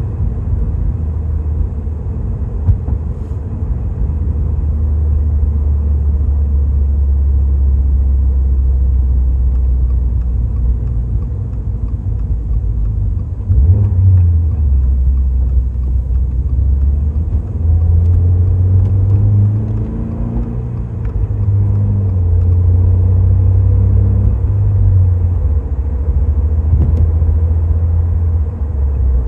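Toyota GR86's 2.4-litre flat-four running through a Fujitsubo A-R catback exhaust while driving, a deep steady drone. Its pitch changes in steps several times in the second half.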